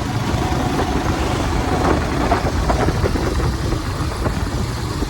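Motorcycle engine running steadily, heard from the rider's own bike, with road and traffic noise around it.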